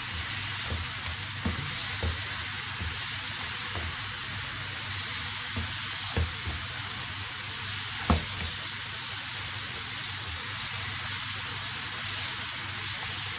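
Banana slices sizzling steadily in melted butter in a non-stick frying pan while a spatula turns them, knocking against the pan a few times, loudest about eight seconds in.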